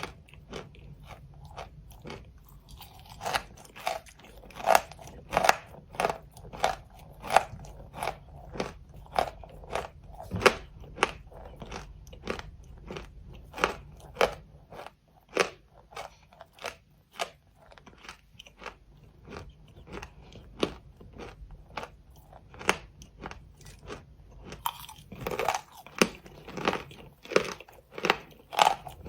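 A person biting into and chewing chalk, a run of sharp crunches about one to two a second, quieter for a stretch in the middle and louder again near the end.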